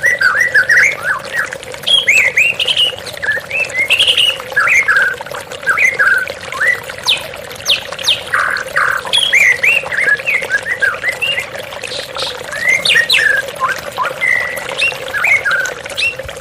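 White-rumped shama (murai batu) singing a rapid, varied run of whistled notes and slurred phrases, over the steady rush of falling water.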